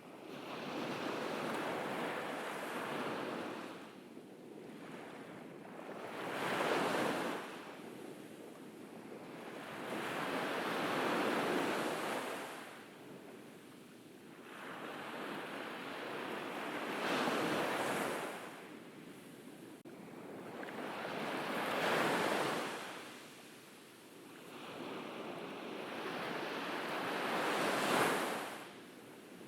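Ocean waves breaking on a beach, each one swelling to a hissing wash and falling away, about six surges spaced four to six seconds apart.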